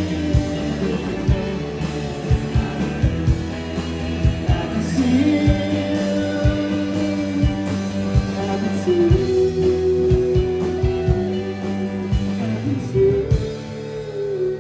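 Rock band playing live: drums beating steadily under electric guitars and bass in an instrumental ending, with the drums stopping about 13 seconds in and the guitars left ringing.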